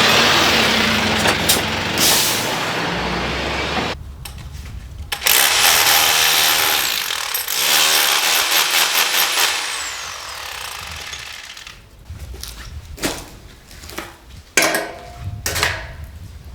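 Power tool running in two long bursts of a few seconds each, followed by scattered clicks and knocks.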